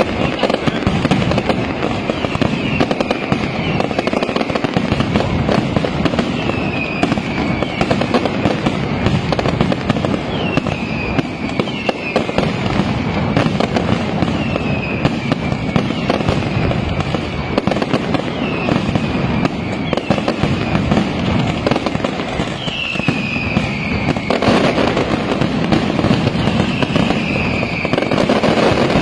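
Night mascletà firecrackers going off in a dense, continuous barrage of rapid bangs, with high whistles falling in pitch every couple of seconds. The barrage thickens and grows louder about four-fifths of the way through.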